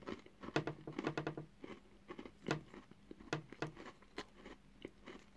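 Mouth chewing a crunchy baked salted pretzel: a run of irregular short crunches, thickest in the first second and a half, then scattered single crunches.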